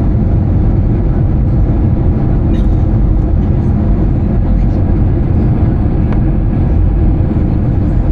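Steady low cabin noise inside an Airbus A320-214 airliner, the engine and airflow noise heard by passengers, holding an even level.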